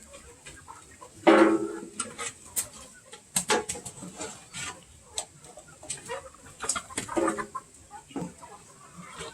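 Chickens clucking, with a loud squawk about a second in and another call about seven seconds in, among scattered sharp clicks and taps.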